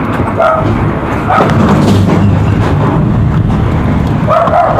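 A dog whining in short pitched cries, three times, over a steady loud low rumble of wind.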